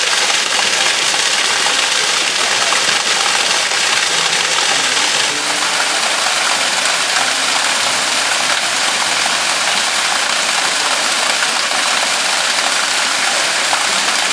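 Steady rushing of water from a spring, an even hiss with a slight shift in texture about five seconds in.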